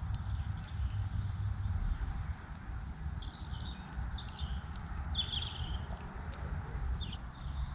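Small songbirds chirping with short high calls, about one a second, over a steady low rumble.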